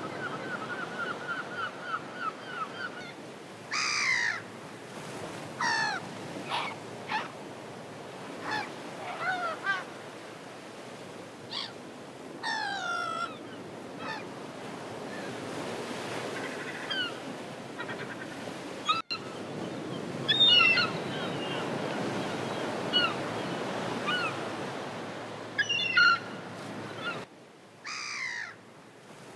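Gulls calling: a quick run of repeated notes at the start, then scattered short calls, several sliding down in pitch, over a steady background rush.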